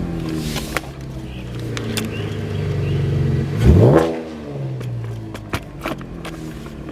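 2015 Chevrolet Camaro's 3.6-litre V6 with its muffler deleted, running at a steady low drone, with one quick rev that rises and falls about four seconds in. A few sharp clicks come over it.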